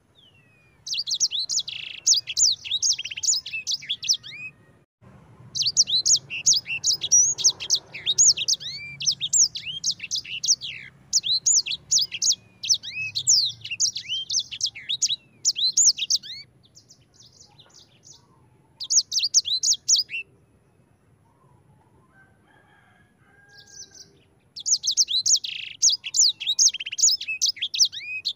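Sanger songbird singing a fast rolling trill of rapid high sweeping notes, in long runs broken by short pauses, with a faint low hum underneath.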